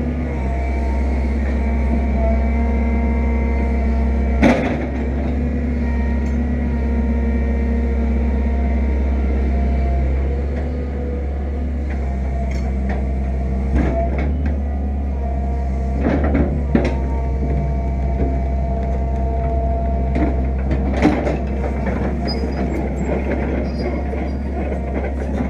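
Fiat-Hitachi EX165 tracked excavator's diesel engine running steadily while digging, a little louder in the first ten seconds, with a few short, sharp knocks scattered through.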